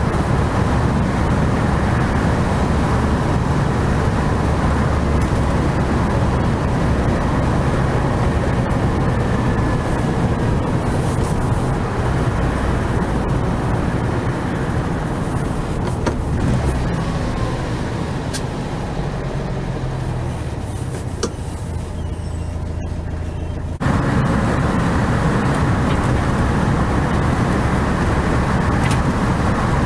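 A 1969 VW 1500 Beetle on the move: its air-cooled flat-four engine running steadily under a dense wash of road noise. The sound eases off for a few seconds in the later part, then jumps suddenly back to the louder driving sound.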